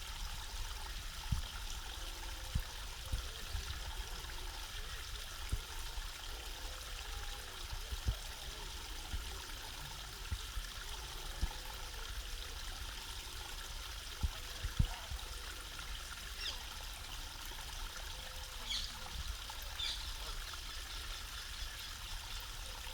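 Small pond waterfall trickling and splashing steadily, with a few soft low knocks now and then.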